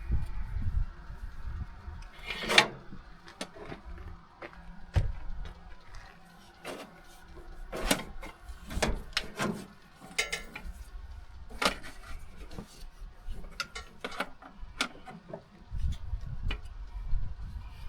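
Irregular metal clicks, clanks and knocks of hand work on a tractor's battery and cable hardware, with a few sharper knocks spread through.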